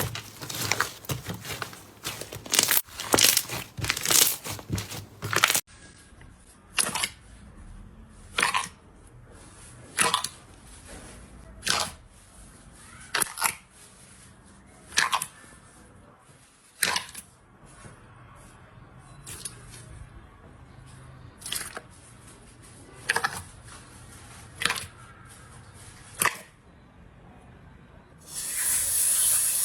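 Slime being handled: a dense run of crackling and crunching for the first five seconds or so, then sharp single pops about every second and a half, roughly a dozen in all. A louder, steady hissing noise starts near the end.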